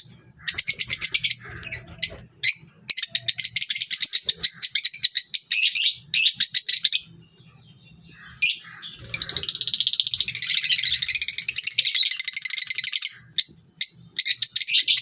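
A pair of parrots calling: repeated bouts of rapid, shrill chirps, with a short lull past the middle, then a longer, denser stretch of chattering.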